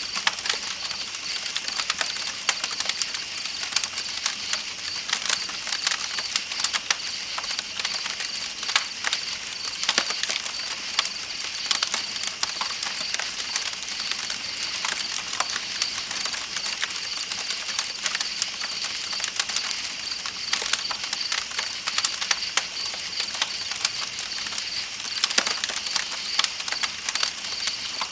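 Campfire crackling with frequent sharp pops, over a steady high trill of night insects.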